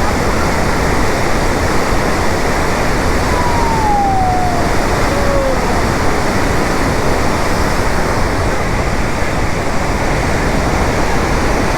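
Devi's Fall in monsoon flood: a loud, steady rush of water plunging into its gorge, with a faint falling whistle-like tone about three seconds in.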